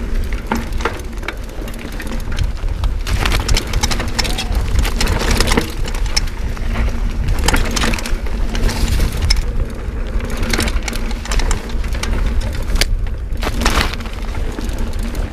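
Mountain bike riding over a rough, rocky trail: tyres crunching on stones and gravel, with frequent knocks and rattles from the bike and a steady low rumble underneath.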